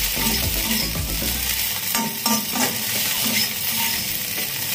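Chopped okra sizzling as it dry-fries in a kadai, with a metal spatula stirring and scraping it against the pan several times. The okra is nearly done and has turned crisp.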